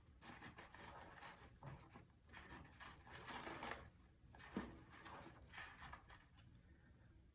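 Faint, intermittent rustling and tearing of toilet paper as a Congo African grey parrot shreds it with her beak, in several short soft patches.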